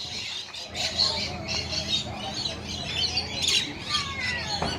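Rainbow lorikeets chattering and squawking, many high calls overlapping, with one falling call near the end.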